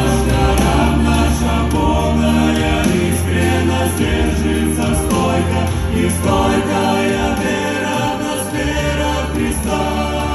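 Christian gospel song: a choir singing with instrumental backing over a steady bass line.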